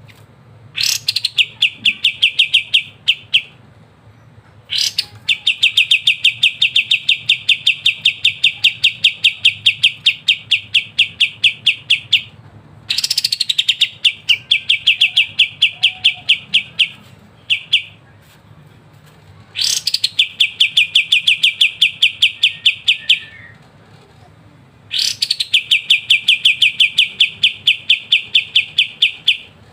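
Kapas tembak songbird singing its rapid, rattling 'ngebren' song: repeated phrases that each open with a quick rising note and run on for several seconds as a fast, even train of bright chirps, with short pauses between phrases.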